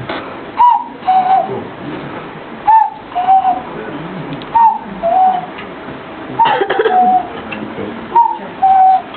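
A man's vocal imitation of a common cuckoo's call, 'cuck-oo', a higher note dropping to a lower one, repeated five times about every two seconds.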